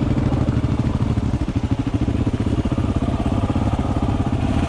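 Single-cylinder dual-sport motorcycle engine running steadily, its rapid firing pulses even throughout.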